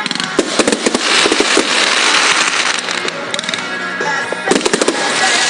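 Fireworks going off: sharp bangs in quick clusters with a dense crackling between them, over music playing.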